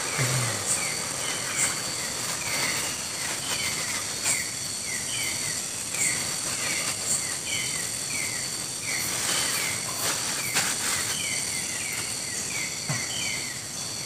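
Tropical forest ambience: a steady high insect drone, with a short falling chirp repeated about twice a second and a few faint clicks.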